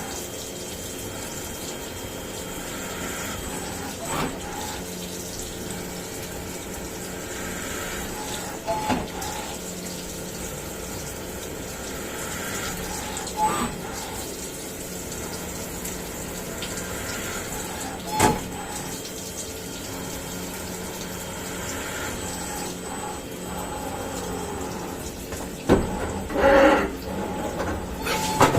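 CNC milling machine at work, with a steady rush of coolant and a constant machine hum. A few sharp clicks or knocks are scattered through, and a louder clatter of knocks comes near the end.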